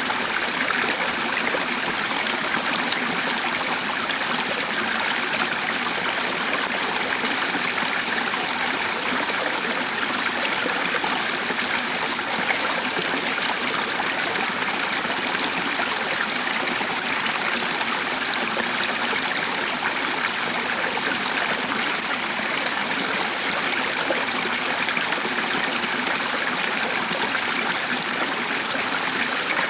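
Running water of a stream, a steady, even rush that doesn't change.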